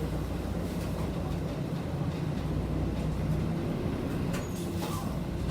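City bus pulling away from a stop, heard from inside the cabin: the engine runs steadily with a low hum. A faint click comes about four and a half seconds in.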